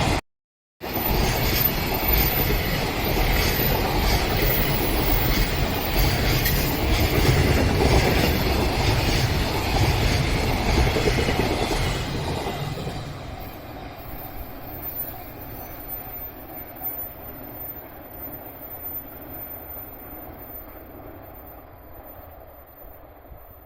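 Train passing close by on the line, its wheels clattering over the rails, then receding and fading away over the last ten seconds or so. The sound drops out for a moment right at the start.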